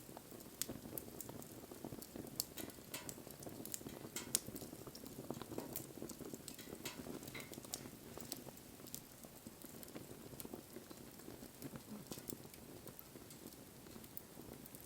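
Campfire burning: a low steady rush of flames with frequent, irregular sharp crackles and pops from the burning wood.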